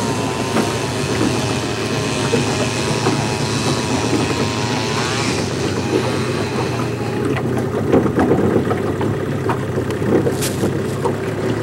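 Motorboat's engine running steadily under way. A whine over it wavers in pitch for the first five seconds or so, then fades.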